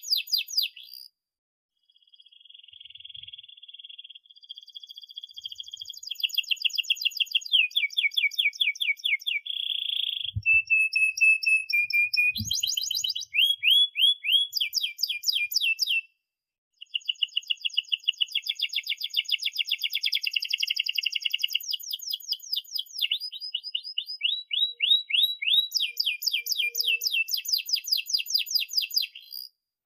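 Domestic canary singing long phrases of fast repeated notes and trills (rolls) mixed with chirps. It breaks off briefly about a second in and again about halfway, then carries on.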